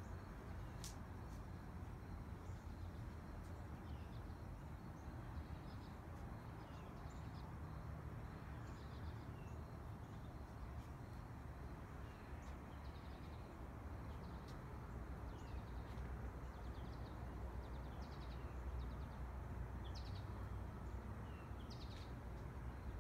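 Birds chirping in short, scattered calls over a steady low outdoor rumble, with a single sharp click about a second in.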